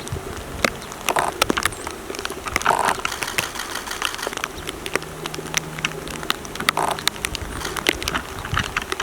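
Raindrops pattering irregularly close to the microphone, with a low steady buzz for a couple of seconds in the middle.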